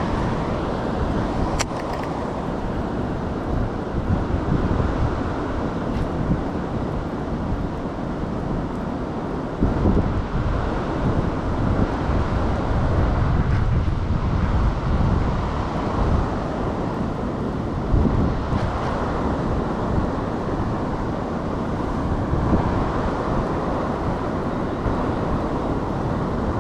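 Wind buffeting the microphone over a steady rush of water, with uneven low rumbling gusts.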